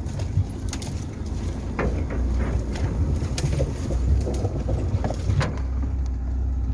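Car driving: a steady low rumble with frequent short knocks and rattles.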